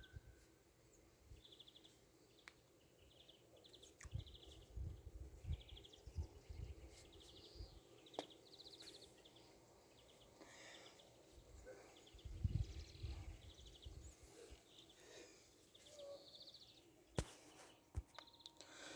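Near silence: faint outdoor background with short high chirps repeating every second or so, a few soft low bumps, and a sharp click near the end.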